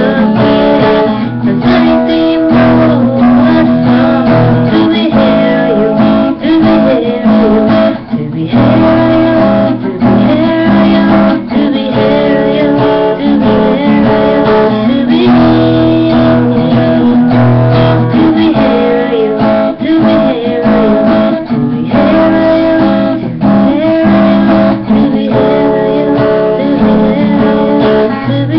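Acoustic guitar strumming chords steadily through an instrumental passage of the song.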